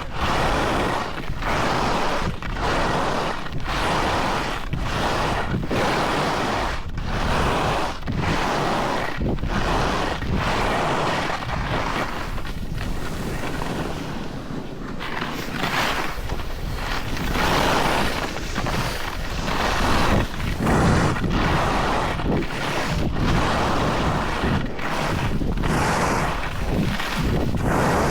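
Skis or board edges scraping and carving on packed snow in a steady run of turns, the noise swelling and dropping about once every second or two, with wind rushing over the microphone.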